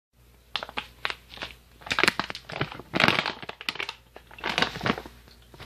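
Irregular crackling and crunching of something being handled, in uneven clusters of short sharp noises.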